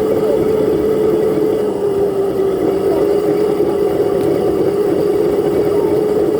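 Dirt bike engine running at a steady, fairly even pitch while being ridden.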